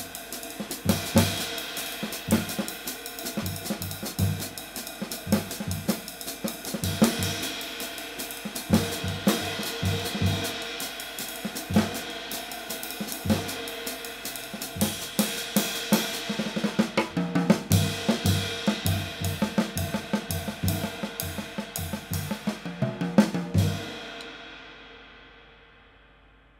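A drum-kit groove played on a Kamin 20-inch K-Klasse Light trash ride, a hand-worked B20 bronze cymbal, with kick drum and snare under the cymbal wash. Near the end the playing stops and the cymbal rings out and fades away.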